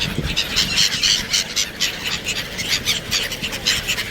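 A flock of black-headed gulls calling over one another: many short calls in quick succession, with no pause.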